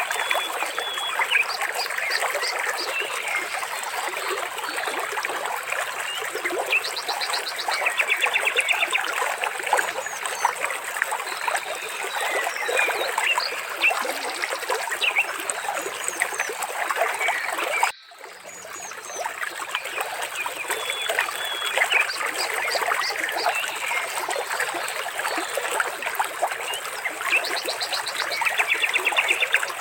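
Trickling, splashing water with birds chirping and giving short fast trills over it. The sound cuts out for a moment about two-thirds through, then returns.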